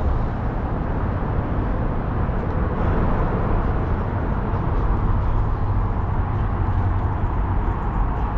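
Steady road noise of a moving car: a low rumble of tyres and engine with no distinct events.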